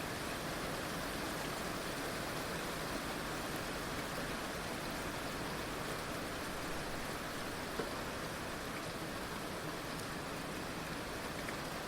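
Heavy rain falling steadily, a dense even hiss with a few louder single drops here and there.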